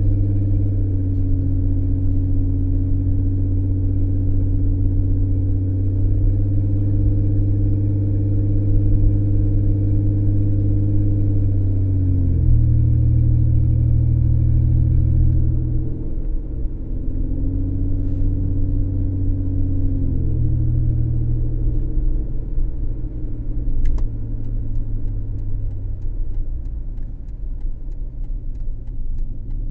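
Car engine running while the car is driven, a steady low drone whose pitch drops sharply about twelve seconds in, then rises and falls again, easing off near the end.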